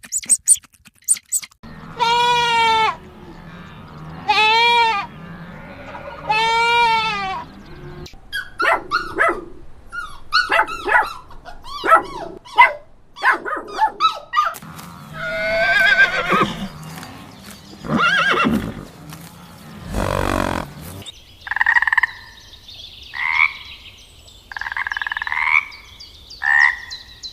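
A run of different animal calls, one after another. First come three long pitched calls about two seconds apart, each rising then falling. Then there is a stretch of short sharp calls and clicks, and near the end four repeated higher-pitched calls.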